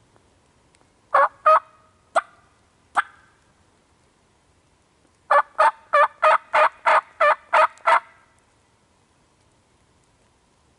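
Hen turkey yelps on a turkey call: a few scattered single yelps, then an even run of about nine yelps, roughly three a second, each note breaking downward in pitch.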